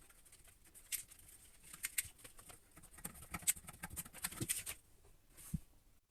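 Faint, irregular small clicks and taps of hands unscrewing the toilet's water supply line at the shut-off valve, with a single dull knock near the end.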